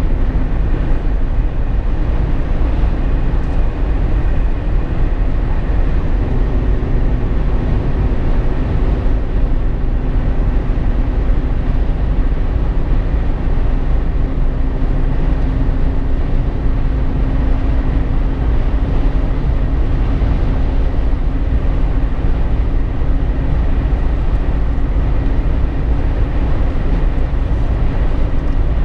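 Steady low road and drivetrain rumble inside a Jeep Wrangler JK's cabin while driving on the highway, with a faint steady hum above it.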